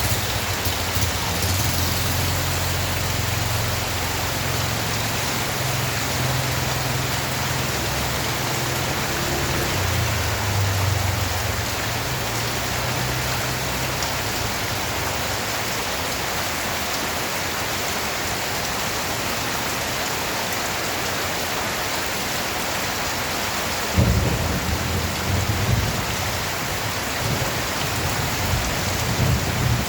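Steady rain falling, with low rolling thunder that rumbles through the first half and dies away. About 24 seconds in, a new peal of thunder breaks in suddenly and keeps rumbling.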